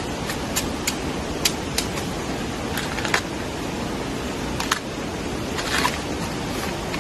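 Steady hiss of rain, with a dozen or so sharp clicks and snaps scattered through it and a short scrape near the end.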